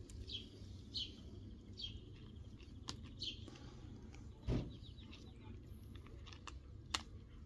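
A small bird chirping over and over, short falling chirps about once a second, over a low steady background hum. A dull thump sounds about halfway through, and there are a few sharp clicks.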